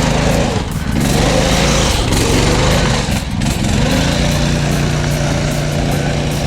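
Small engine of an old go-kart running hard, its pitch rising and falling for the first few seconds, then holding steady near the end.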